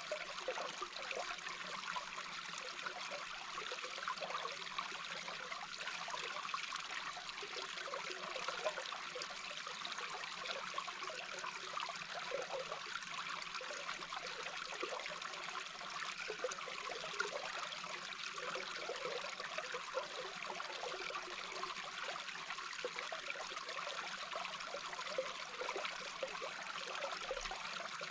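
Babbling brook heard underwater: a steady rushing hiss with constant small bubbling gurgles.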